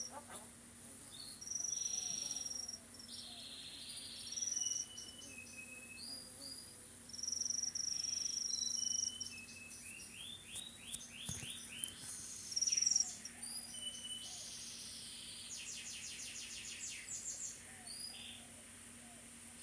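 Pet talking bird whistling and calling: clear high whistles, some held for about a second, with quick rattling chatter around ten seconds in and again near the end.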